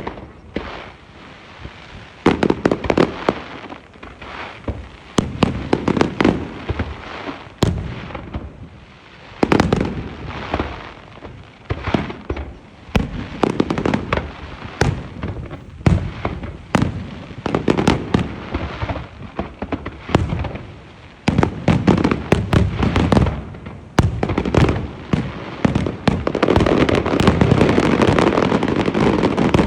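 Aerial fireworks going off in a finale barrage: repeated sharp bangs with crackling, growing denser towards the end into an almost continuous rattle of bursts.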